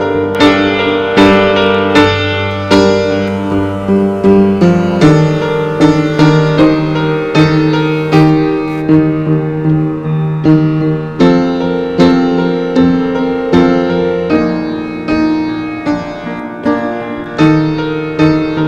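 Instrumental music led by piano or keyboard: chords struck in a steady rhythm, with no singing.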